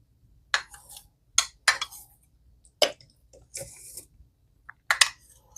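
A spoon knocking against a bowl about five times, with a short scrape just before four seconds in, as mayonnaise is spooned and stirred into chicken salad.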